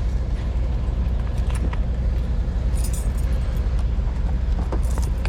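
A vehicle engine idling steadily, with a few light metallic jingles and clicks over it, about halfway through and again near the end.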